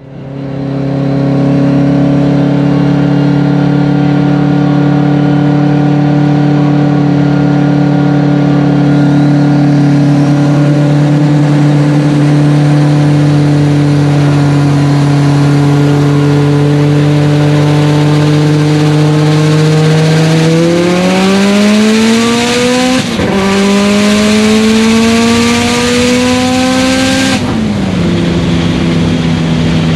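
A high-performance car engine running at a steady pitch, then accelerating hard with its pitch climbing. One quick gear shift breaks the climb, the pitch climbs again, and then the engine eases off near the end.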